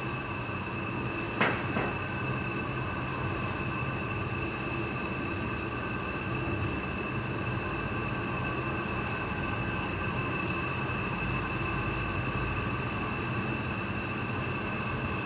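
AC TIG welding arc on aluminium, a steady buzzing hum with a high whine. There is a sharp click about a second and a half in.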